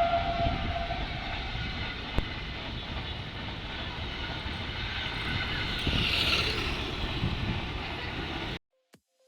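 The tail of a train horn, then the steady rumble and rail noise of a passing train, with one sharp click about two seconds in. The sound cuts off abruptly near the end.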